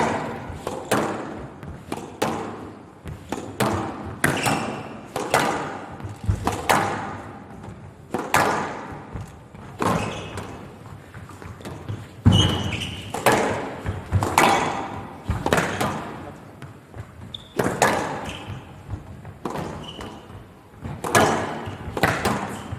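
A squash rally: the ball is struck by rackets and smacks off the court walls again and again, about once a second, each hit ringing out in the hall. A few short, high squeaks come in between the hits.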